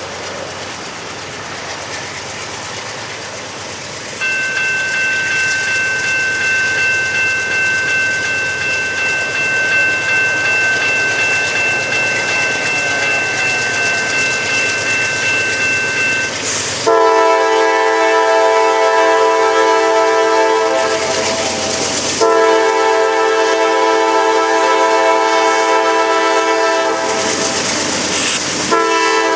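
Norfolk Southern GE C40-9W diesel locomotive hauling a ballast train past at close range, wheels clattering on the rails. A steady high-pitched squeal sounds for about twelve seconds, then the locomotive's air horn blows two long blasts and begins another just at the end.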